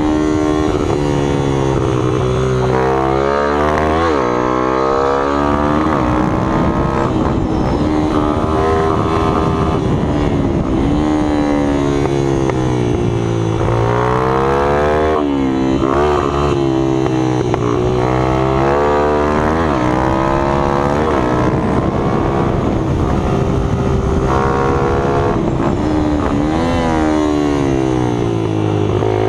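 Minibike engines revving up and down over and over. Their pitch climbs and falls every few seconds, and more than one engine can be heard at once.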